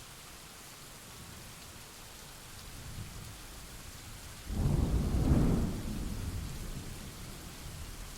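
Steady rain with a rumble of thunder building, then a sudden loud thunderclap about four and a half seconds in that rolls off into a fading rumble.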